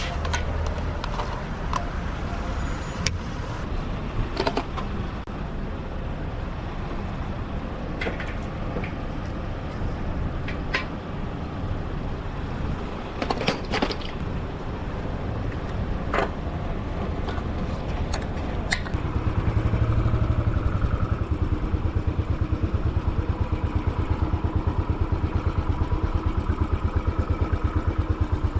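Single-cylinder Royal Enfield Classic 500 motorcycle engine running on the move, with scattered sharp clicks. The engine grows louder, with a fast even beat, about two-thirds of the way through.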